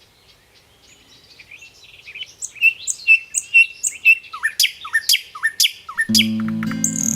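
Songbirds chirping, fading in and growing louder as a run of quick repeated chirps and short down-sweeping notes. About six seconds in, strummed acoustic guitar music starts under the birdsong.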